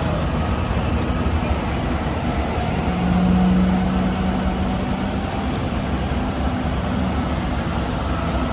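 Heavy diesel construction equipment running steadily with a low rumble. A deeper steady hum swells in about three seconds in and fades again near the end.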